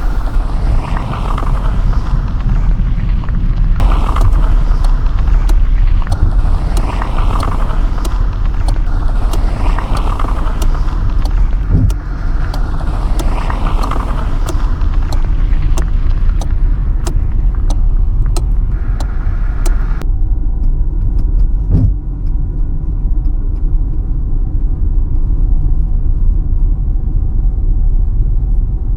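Car driving, heard from inside the cabin: a steady low engine and road rumble with tyre and wind hiss. About twenty seconds in, the hiss drops away abruptly and mostly the low rumble remains.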